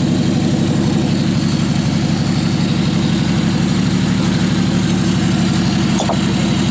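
Jeep's engine idling steadily close by, an even low drone.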